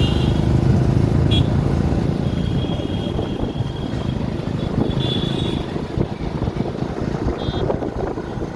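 Motor vehicle running on the road, a steady low rumble with road noise, broken a few times by short high-pitched tones.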